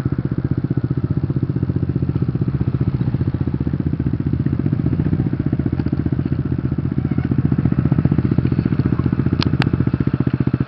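Motorcycle engine running steadily with an even, closely spaced firing beat, with a couple of short clicks about nine and a half seconds in.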